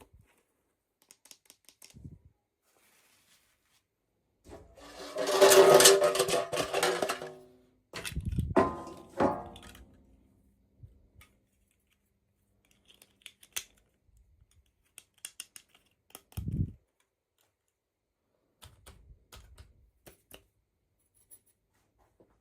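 Toy packaging being handled and torn open: a loud rustle and tear from about four and a half seconds to seven and a half, a shorter one just after, and scattered small clicks and taps of plastic pieces in between.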